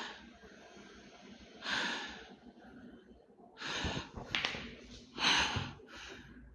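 A man breathing close to the microphone: about five short, noisy breaths, sniffs and exhales, coming every second or so, with quiet room hiss between them.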